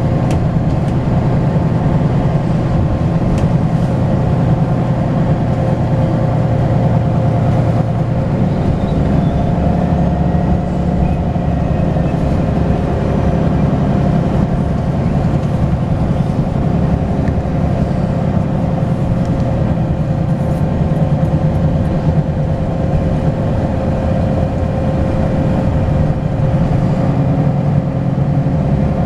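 Volvo B10BLE bus's diesel engine running steadily under way, a low rumble with a steady whine over it.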